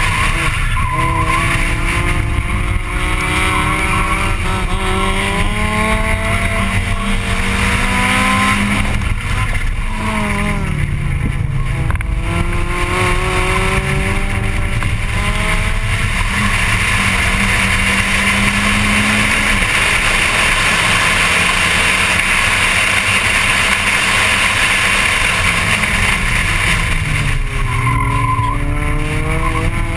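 Onboard sound of a Volkswagen Golf Mk1 race car's 1.8-litre four-cylinder engine under hard acceleration, its note climbing as the revs build. The revs drop sharply and build again about ten seconds in and again near the end, with a steady rush of wind and road noise underneath.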